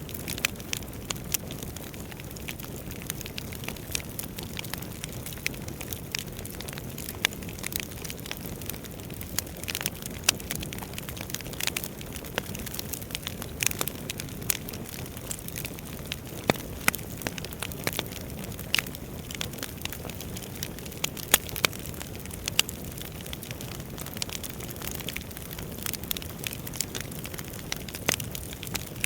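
Wood fire burning in a fireplace: a steady low rushing of flames with frequent sharp, irregular crackles and pops from the burning logs.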